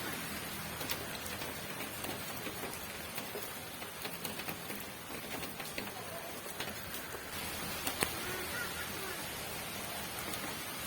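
Steady rain falling, with individual drops ticking on a surface through the hiss; one sharper drop hits about eight seconds in.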